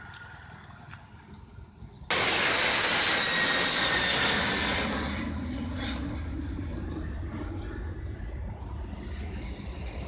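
Loud rushing vehicle noise that starts abruptly about two seconds in, holds for about three seconds, then eases into a steady low rumble.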